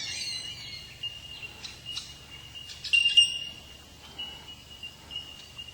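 Bellbirds calling: ringing, bell-like notes over a steady high piping tone, with a cluster of notes at the start and a louder call about three seconds in.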